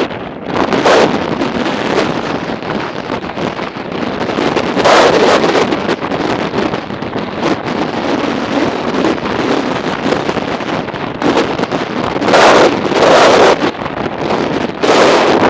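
Strong wind buffeting the microphone of a moving motorcycle, a loud rushing noise that rises and falls in gusts, strongest about five seconds in and again in the last few seconds.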